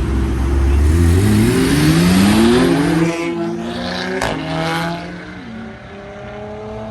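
A car accelerating hard, its engine note climbing steeply in pitch for about two and a half seconds, then fading as the car pulls away.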